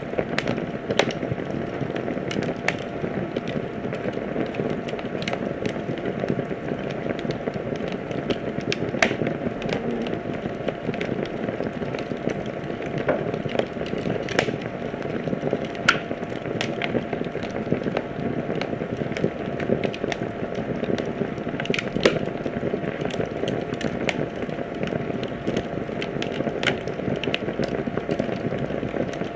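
Wood fire crackling steadily, with many irregular sharp pops and snaps over a soft rushing burn.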